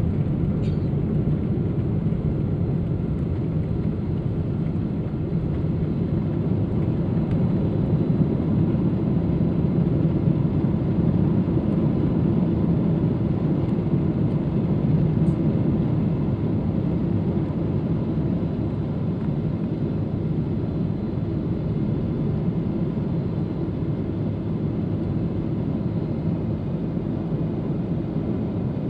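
Airliner cabin noise during take-off: a steady low rumble of jet engines and rushing air, swelling slightly for a few seconds around the middle.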